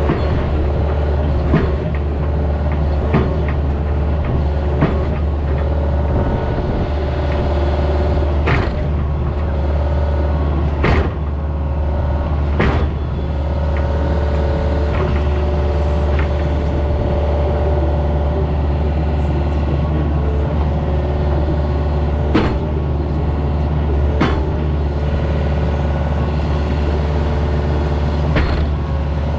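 Excavator diesel engine running steadily, with a number of sharp knocks at irregular intervals.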